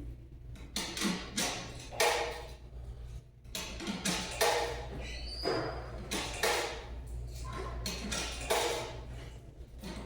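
Irregular clunks and rustles from a coin-operated washing machine being handled and set, over a steady low machine hum. A short high beep sounds about halfway.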